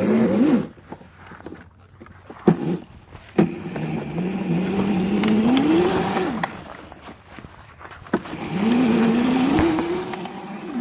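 Mini bike's small engine revving up and dropping back three times, its pitch climbing slowly each time before falling off. There are a couple of sharp clicks in the quieter gap early on.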